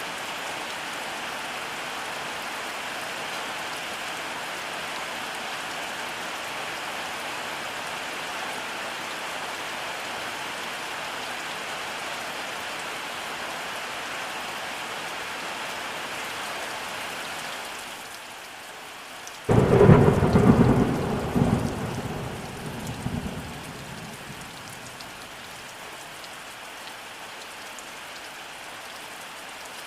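Steady rainfall, which eases slightly about two-thirds of the way through, followed right after by a sudden loud thunderclap that rumbles on and fades over about four seconds.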